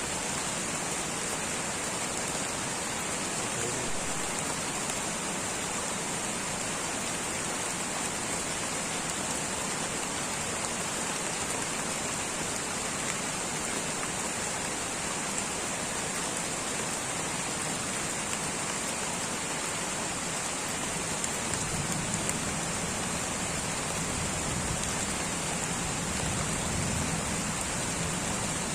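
Light rain falling steadily, an even hiss of many drops, with a low rumble coming up beneath it in the last third.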